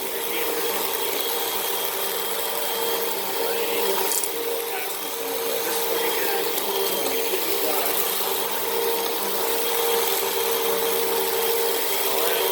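Vacuum cleaner running steadily, its motor giving a constant whine over a rushing hiss of airflow, while it picks up sand and cat litter. There is a brief click about four seconds in.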